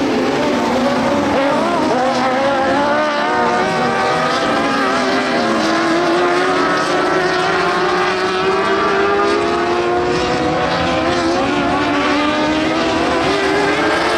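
Dwarf race cars running in a pack on the oval, several engines overlapping, their pitches rising and falling as the cars accelerate and lift through the turns.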